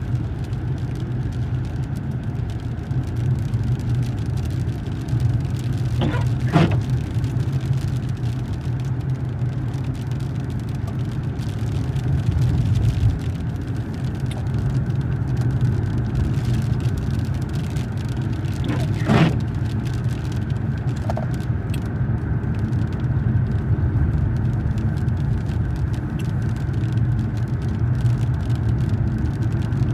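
Steady low rumble of a car driving, heard from inside the cabin, with a few brief swishes about six seconds in and again near nineteen seconds.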